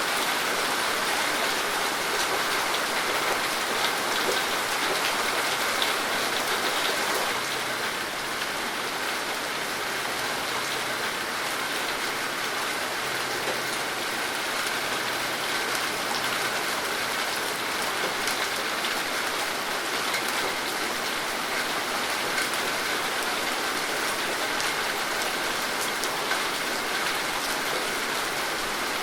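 Steady rainfall: an even hiss of rain with many small drops pattering on a surface, a little heavier during the first several seconds.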